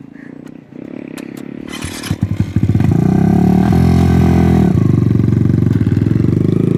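A 125 cc single-cylinder mini bike engine comes up loud about two and a half seconds in. Its revs rise and dip, then hold steady.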